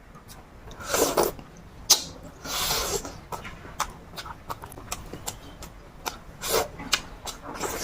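Close-up eating sounds: wet chewing clicks and smacks with a few louder slurps.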